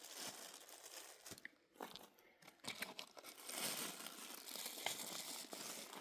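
Faint crinkly rustling with scattered small snaps and ticks, dropping away briefly about two seconds in.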